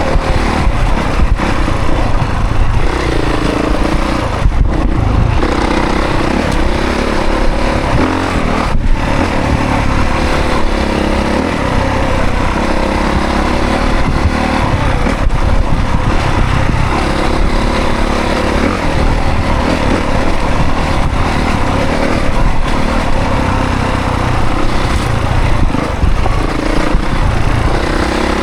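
2024 Honda CRF450 dirt bike's single-cylinder four-stroke engine being ridden hard, its revs rising and falling continuously, with brief throttle chops about five and nine seconds in.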